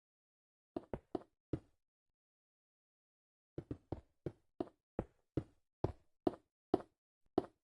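Sharp, separate knocks: three quick ones about a second in, then after a pause a steady run of about eleven, roughly three a second.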